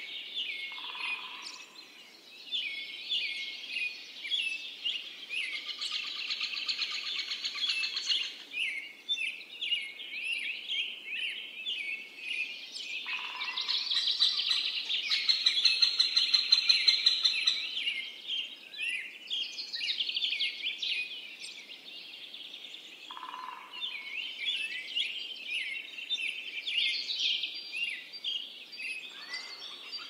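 Several songbirds chirping and singing together, a busy chorus of quick overlapping notes that swells loudest about halfway through.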